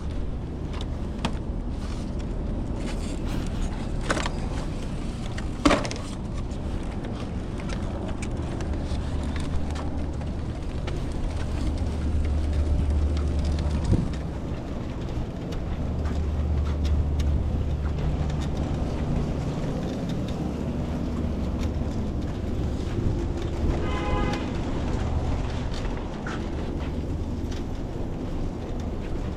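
Steady low mechanical rumble, like a running vehicle, with a few sharp knocks and clatters and a brief pulsing tone about three quarters of the way in.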